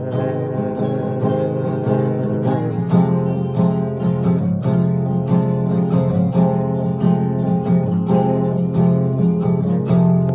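Recorded song in an instrumental passage: acoustic guitar strummed in a steady rhythm, with no singing.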